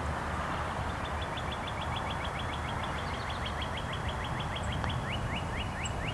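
A songbird singing a long run of quick down-slurred notes, about six a second, switching about five seconds in to slower, more deeply sweeping notes, about four a second. Underneath is a steady rushing background noise.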